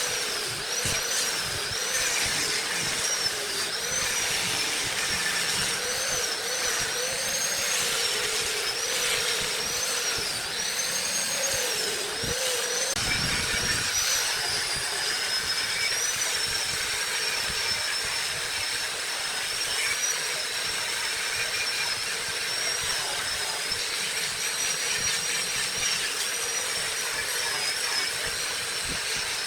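Wood lathe running under a workpiece, a steady motor whine with a hiss, its pitch wavering up and down through the first half and then settling.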